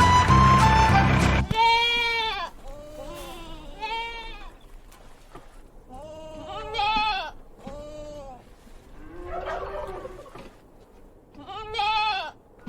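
Goat bleating over and over, about eight short calls that rise and fall in pitch, spaced a second or two apart. Background music cuts off about a second and a half in.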